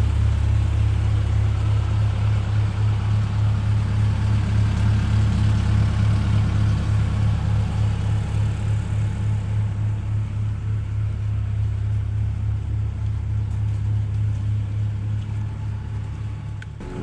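Caterpillar CAT 310 excavator's diesel engine running steadily with a low, even hum, its sound easing a little about halfway through.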